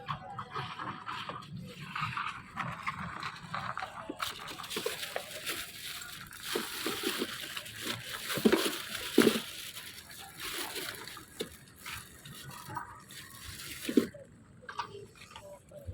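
Water splashing and sloshing, with a few sharp slaps, the loudest about eight and nine seconds in.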